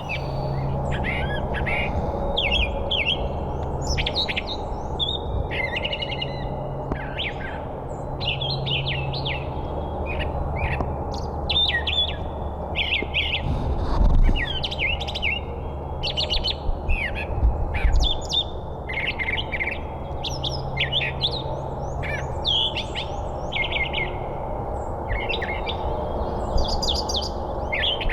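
Many songbirds chirping and singing over one another in a continuous chorus of short calls and trills. A low steady hum runs underneath, and a dull thump comes about fourteen seconds in.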